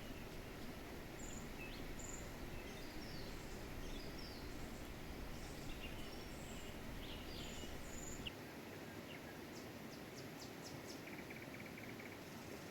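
Small birds chirping and calling in short, scattered notes over a steady background hiss, with a brief rapid trill near the end.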